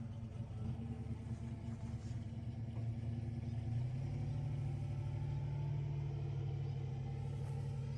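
Large truck engine running steadily at low speed, getting a little louder about halfway through.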